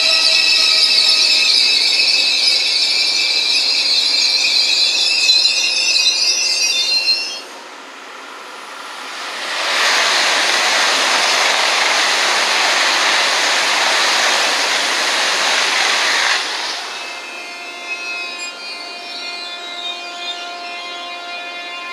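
Eurostar Class 374 high-speed trains passing. The first gives a high, whining tone that stops abruptly about seven seconds in. After a short lull, a train rushes past on the far tracks with a steady rushing noise for about seven seconds, then quieter whining tones follow.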